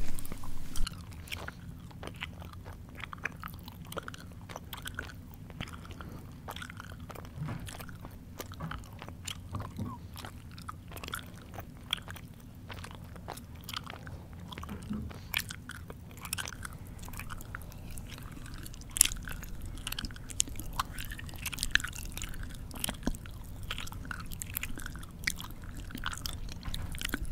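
Close-miked chewing with the mouth open: irregular wet smacks and crunchy clicks, several each second, with a few sharper, louder snaps in the second half.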